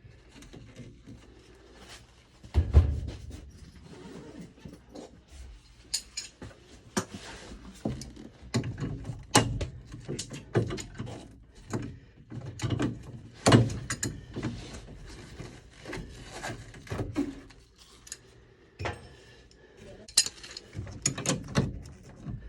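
Tools and pipe being handled during a water-line repair: irregular clicks, knocks and clatter, with one heavy thump about three seconds in.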